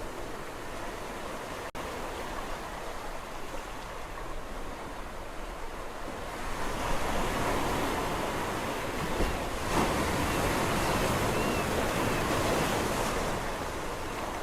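Sea waves washing on the shore, a steady rushing surf that swells into a louder breaking wave about halfway through and then eases back. A tiny break in the sound comes about two seconds in.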